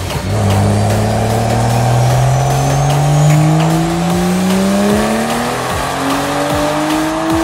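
Turbocharged BMW N55 straight-six with a big single turbo, running on E85 during a full-load pull on a chassis dyno. The engine note comes in about a third of a second in and climbs steadily in pitch through the revs.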